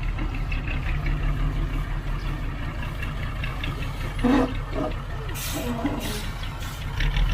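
Heavy diesel earthmoving machinery engine running steadily, with two short hisses a little past the middle.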